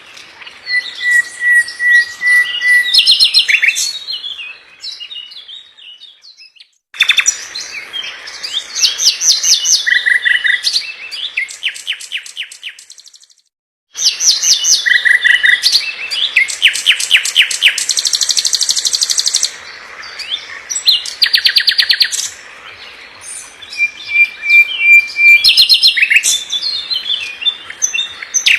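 Nightingale song: phrases of rapid repeated notes, trills and clear whistles, including a long steady whistle early on, with two short silences that break off suddenly.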